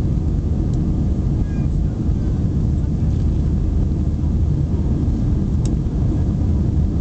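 Airbus A320 in flight: a steady low rumble of the jet engines and airflow, heard from inside the cabin.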